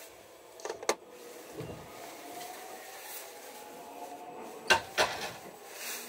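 A train passing close by on the next track, heard from inside a train carriage: a steady hum, with two pairs of sharp wheel clacks over rail joints, one about a second in and another near the end.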